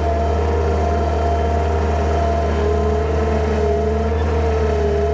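A vehicle engine running steadily: a low drone with a constant pitch.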